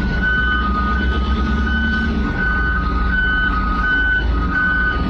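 Forklift reversing alarms beeping about twice a second at two slightly different pitches, over the steady low rumble of running engines.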